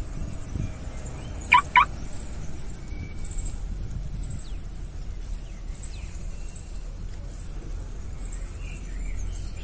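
Two short, loud bird calls in quick succession about one and a half seconds in, over a steady low rumble of wind on the microphone, with faint high chirps scattered throughout.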